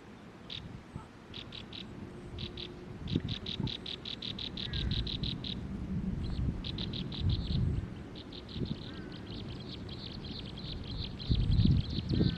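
A bird calling in rapid runs of short, evenly repeated high notes, about eight a second, over low rumbling noise that swells several times and is loudest near the end.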